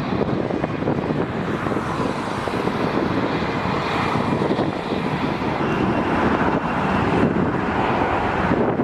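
Jet airliner engines running with a steady rumble and a faint high whine, building slightly toward the end, with wind buffeting the microphone.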